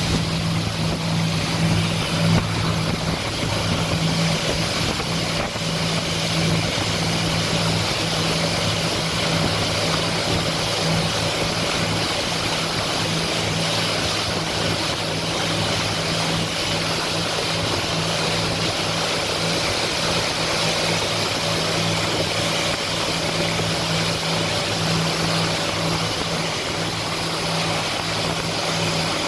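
Motorboat engine running steadily, a constant low drone over a steady rushing noise.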